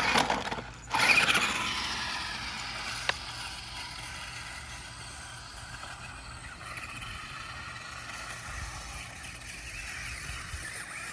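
Small electric motor of a remote-control shark monster truck whining as it drives. The whine is loudest about a second in, then fades and wavers as the truck moves off, with a sharp click about three seconds in.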